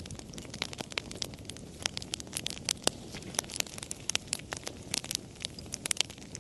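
Wood fire burning, with frequent sharp, irregular pops and crackles over a low, steady rumble of flame.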